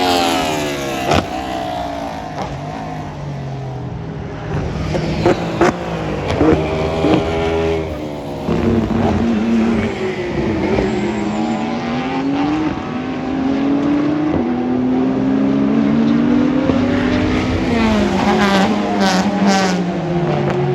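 Racing cars (GTs and prototypes) passing on track, their engines rising and falling in pitch through gear changes and braking, with several sharp pops in the first seven seconds and another car passing close near the end.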